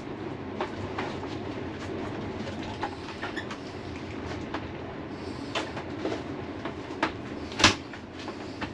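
Storm wind rumbling steadily around a caravan, with scattered clicks and knocks throughout and one sharp knock near the end.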